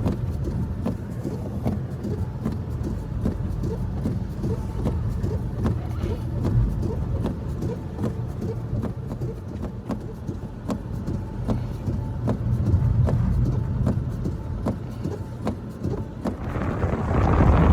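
Blizzard wind running as a steady low rumble, with many small irregular ticks over it; a stronger gust hisses in near the end.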